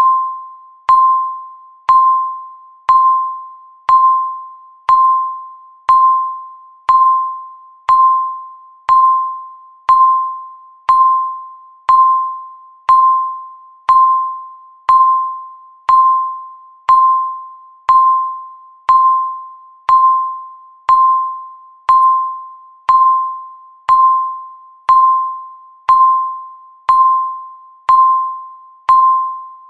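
Countdown timer ticking once a second: each tick is a short, pitched ping that starts sharply and quickly rings away, repeating evenly.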